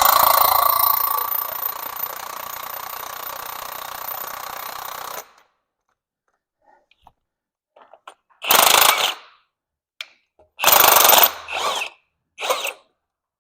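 Impact wrench running a nut down the threaded rod of a coil-over strut, taking up spring tension: a steady hammering whirr that eases off partway and stops about five seconds in. After a pause it fires in four short bursts.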